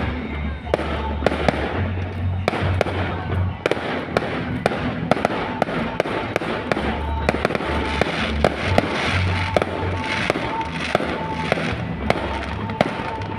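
Fireworks going off in a rapid, irregular string of sharp bangs and pops, a few each second, with music playing underneath.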